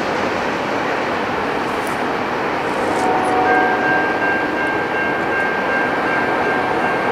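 Freight train cars rolling past on the rails and away, a steady rumbling rush of wheels on track. About halfway through, a steady high-pitched tone joins in and holds.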